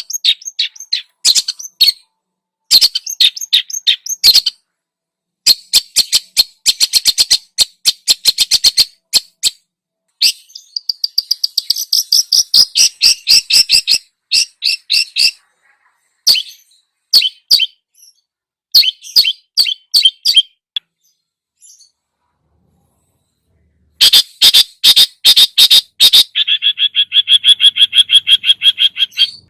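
Cucak jenggot (grey-cheeked bulbul) and cendet (long-tailed shrike) masteran song: fast, chattering runs of short high notes broken by short pauses. There is a silence of a few seconds about two-thirds through. Near the end comes a dense burst and a steady repeated series of lower notes.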